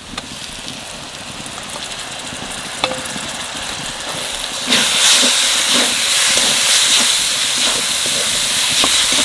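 Fried onions and spices sizzling in hot oil in an aluminium kadai as wet chilli paste is spooned in and stirred. The sizzle grows louder and swells sharply about halfway through, with a single sharp tap about three seconds in.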